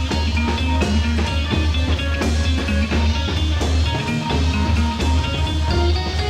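Live rock band playing an instrumental jam, with a heavy bass line, a steady drum beat and guitar and other instruments holding notes over it.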